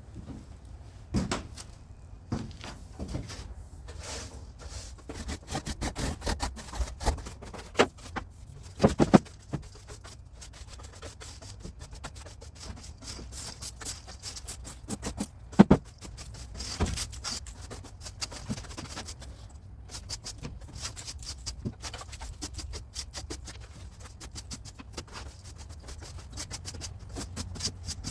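Broom sweeping out the floor of a box-truck trailer: a long run of short, scratchy strokes, broken by a few sharp knocks, the loudest about a third of the way in and again just past halfway.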